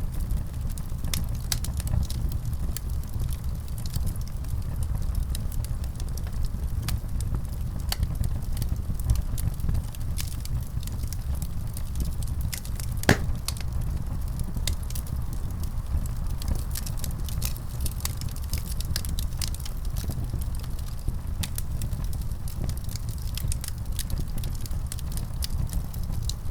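Wood fire burning in a fireplace: a steady low rumble with frequent small crackles and pops, one louder pop about halfway through.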